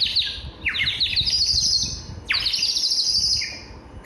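Clay water whistle shaped like a sparrow, blown with water inside, giving three bursts of fast warbling trills that sound like a sparrow chirping, the first already going at the start.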